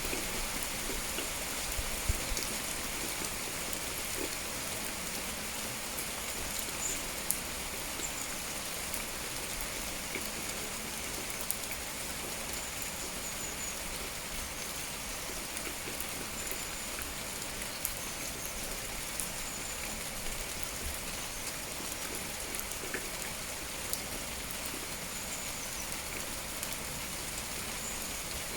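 Steady rain falling outside a window, with scattered louder drops and faint short high bird chirps now and then.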